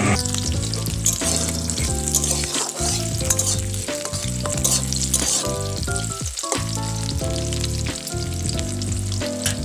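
Chopped onion and chillies sizzling as they fry in hot oil in an iron kadai, with a metal spatula scraping and stirring them against the pan. Background music plays underneath.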